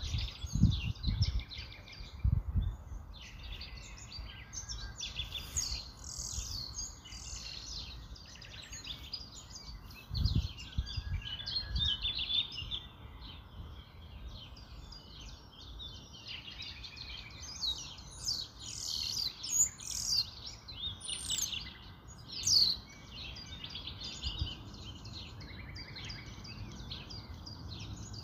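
Small birds chirping and twittering in short irregular calls, with a few low thuds near the start and again about ten seconds in.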